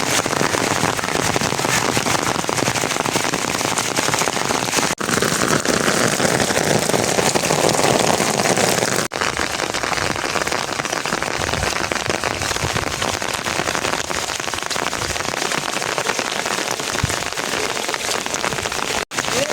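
Steady rain falling: a dense, even hiss. It breaks off for an instant three times, about five, nine and nineteen seconds in.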